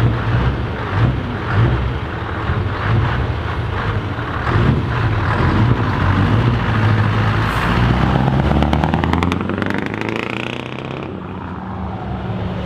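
Heavy truck engines running steadily. About two thirds of the way through, one engine's pitch rises over a couple of seconds as it revs up, then falls back to a lower, steady run.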